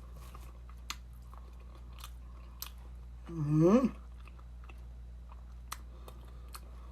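A person chewing food with scattered soft mouth clicks and smacks. About three seconds in comes a brief rising hum of the voice, the loudest sound.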